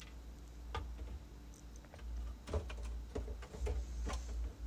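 Scattered light clicks and taps of plastic refrigerator parts being handled: the crisper drawer tracks being taken out.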